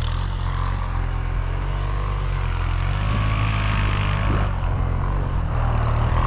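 Snowmobile engine running steadily under way, with a continuous low drone and a faint waver in pitch partway through.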